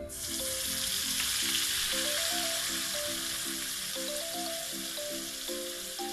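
Chicken frying in a miniature metal wok over a tiny gas stove, a loud sizzle that starts suddenly as an ingredient is tipped in from a small cup and then holds steady.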